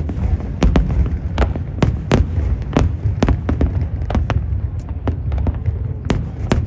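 Fireworks exploding: a rapid, irregular string of sharp bangs and cracks, several a second, over a continuous low rumble of distant bursts.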